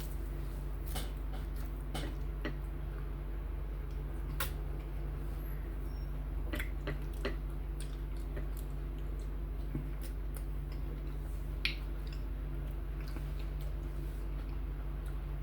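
Eating sounds: scattered soft clicks and small wet squelches of chewing and handling okra soup with fufu. A steady low hum runs under them.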